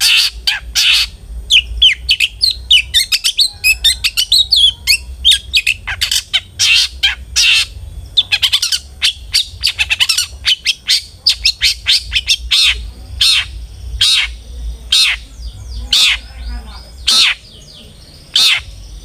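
Long-tailed shrike (cendet) singing hard: a dense stream of short, harsh, scratchy calls and quick chattering notes, high-pitched and rapidly repeated, over a steady low hum. The calls grow quieter near the end.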